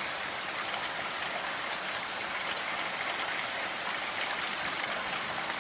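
Steady heavy rain falling, a dense even hiss with many individual drops pattering.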